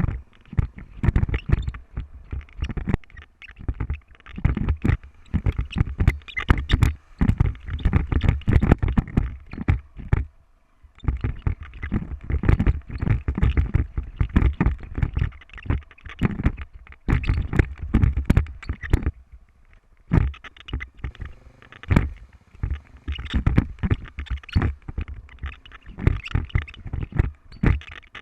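Dense, irregular knocking and rattling over a low rumble, as from a motorcycle-mounted camera jolting over a rough trail, with a brief lull about a third of the way in.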